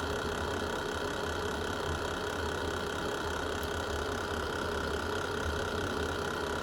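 Fire burning in a fireplace: a steady low rumble with hardly any crackle, one faint tick about halfway through.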